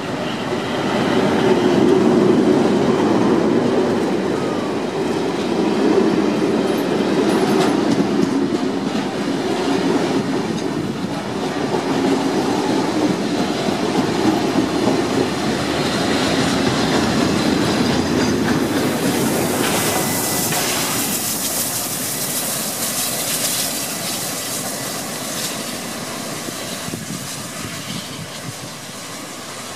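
Heritage train passing close: 40-class diesel-electric locomotive 4001 followed by wooden-bodied carriages, wheels rumbling and clicking over the rail joints. About two-thirds in, the rumble fades and a loud hiss of steam takes over.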